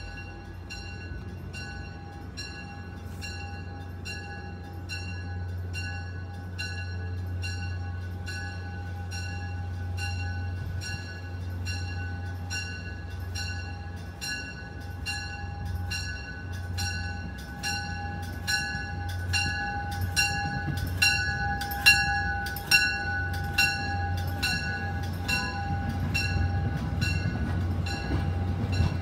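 MBTA commuter train pulling into a station: its bell rings steadily, about three strikes every two seconds, over the low drone of the diesel engine. The rumble and wheel clatter grow louder as the coaches come alongside, with a few sharp knocks about three-quarters of the way through.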